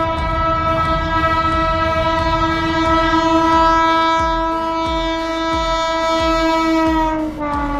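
Locomotive horn held in one long steady blast as a train passes, its pitch dropping near the end as it goes by. Low rhythmic clatter of wheels over rail joints underneath.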